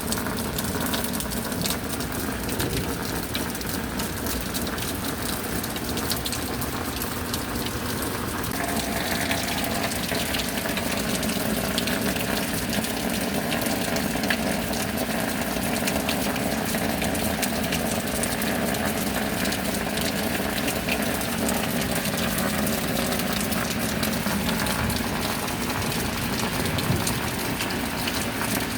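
Steady rain with water pouring and splashing, dense with drop impacts; it turns brighter and fuller about eight or nine seconds in.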